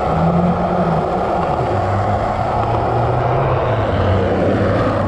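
Car engines running near idle, with one engine's low note dropping in pitch about a second and a half in, over a steady rushing noise.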